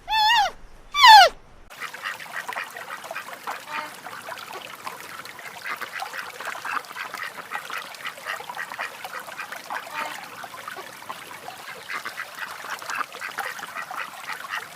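Two short, loud calls falling in pitch, then a flock of ducks quacking in a continuous, overlapping chatter.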